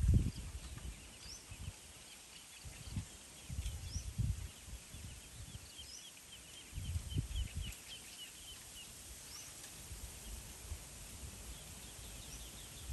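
Birds chirping in a dense, rapid chorus, with a few short rising whistles now and then. Low rumbles come and go several times underneath.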